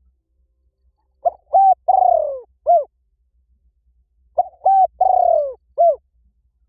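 A dove cooing a lure call, two identical phrases about three seconds apart. Each phrase is two short coos, a longer coo that falls in pitch, and a short closing coo.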